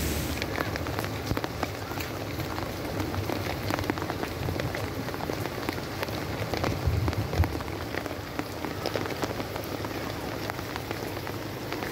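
Heavy rain falling: a steady hiss dotted with many small ticks of drops striking nearby, with a couple of louder low knocks about seven seconds in.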